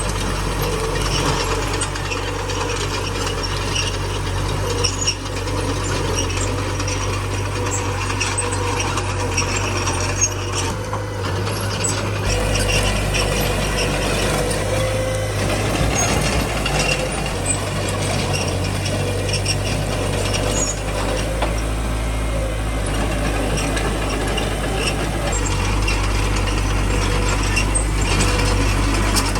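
Small crawler bulldozer working: its diesel engine runs steadily under load while the machine rattles and clanks mechanically throughout. The engine note shifts about twelve seconds in.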